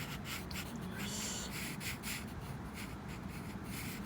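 Pen scratching on paper in quick, irregular strokes as a flower is sketched in a journal.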